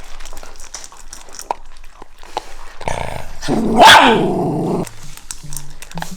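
A Shiba Inu guarding its food lets out a loud growl with a bark at its peak, about three seconds in, lasting about two seconds. Before it there are small clicking sounds.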